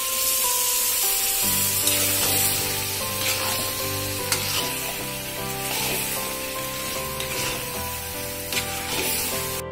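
Raw chicken pieces sizzling in hot oil and onion paste in a kadai as they are stirred with a spatula, over soft instrumental background music.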